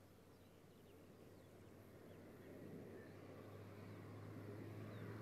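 Faint, distant engine of a 2015 Volkswagen Scirocco R, a turbocharged four-cylinder, as the car approaches: a low steady hum that slowly grows louder.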